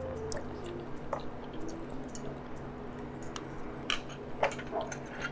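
Close-up chewing of tteokbokki with chewy beef large intestine (daechang): soft, wet, squishy mouth sounds. A few light clicks of chopsticks against a bowl come around four seconds in.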